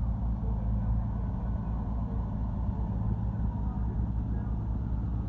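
Heavy diesel truck engine idling with a steady low rumble, with faint voices of people around it.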